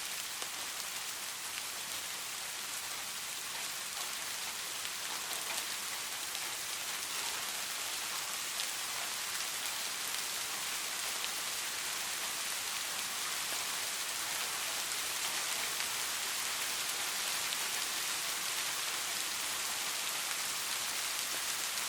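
Steady rain falling, a dense hiss of fine drops pattering on surfaces, with no thunder.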